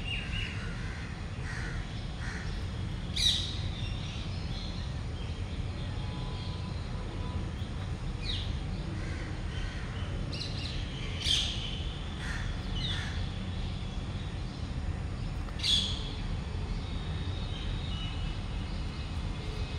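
Birds calling: three loud, sharp calls spread through the stretch, with softer chirps between them, over a steady low rumble.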